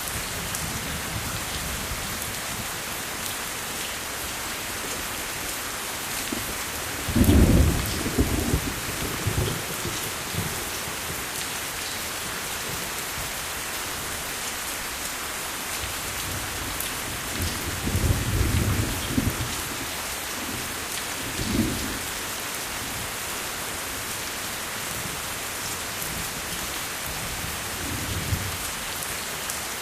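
Steady rain falling, with thunder rumbling twice: a loud roll about seven seconds in, another around eighteen to twenty-two seconds in, and a faint rumble near the end.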